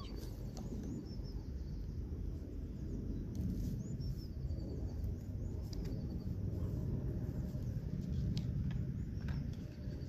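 Outdoor park ambience: a steady low background rumble with short, high bird chirps recurring several times.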